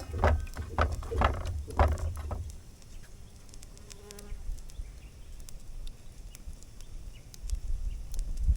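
A fly buzzing briefly close by, about four seconds in. A run of knocks with low thuds comes before it in the first two seconds, and faint scattered clicks come after.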